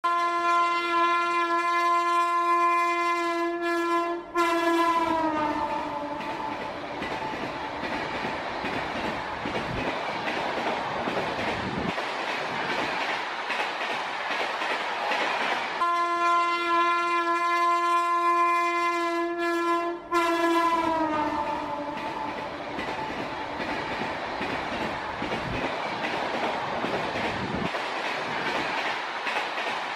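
A train horn sounds one long steady blast of about four seconds, cuts off and falls in pitch, followed by the rushing noise of a passing train. The same horn-and-pass sequence plays again about sixteen seconds in.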